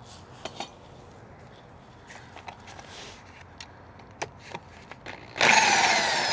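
A few light clicks and taps of parts and tools being handled, then about five seconds in a power drill-driver starts with a loud whir that falls in pitch as it runs, backing out a body-panel fastener.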